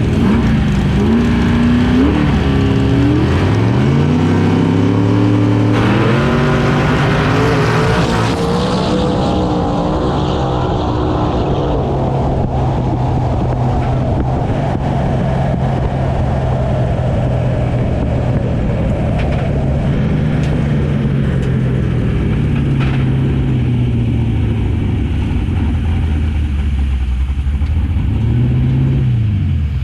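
Car engine revving, its pitch climbing over several seconds, then running at a steady pitch for a long stretch, with a short rise and fall near the end.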